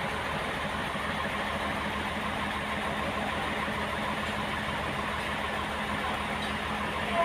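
Sawmill machinery running steadily: a continuous engine drone with a steady hum and even low pulsing. A short falling whine comes at the very end.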